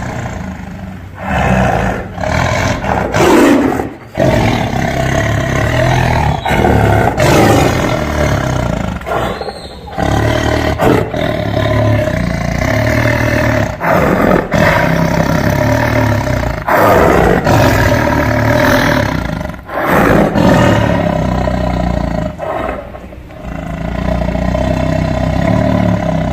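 Large wild animal roaring again and again, each call broken off by a short pause.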